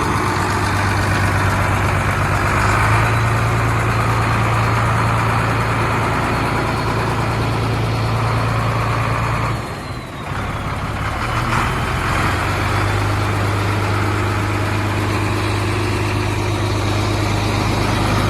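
Diesel engine of a Howo Sinotruk 371 hp dump truck running steadily at idle, dipping briefly about halfway through before settling back to a steady hum.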